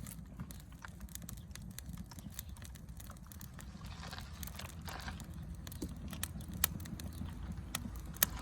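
Wood campfire crackling, with sharp irregular pops, a couple of them louder near the end, over a steady low rumble.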